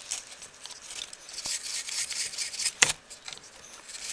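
Bristles of a small brush sweeping dust off the blades of a PC power-supply cooling fan in short, quick scratchy strokes, several a second, with a sharp click about three seconds in.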